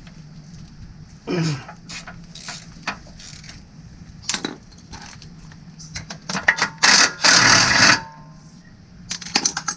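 Hand socket ratchet and metal tools working bolts out of an engine's timing cover: scattered metallic clinks and knocks, then a loud run of rapid ratchet clicking from about six and a half to eight seconds in.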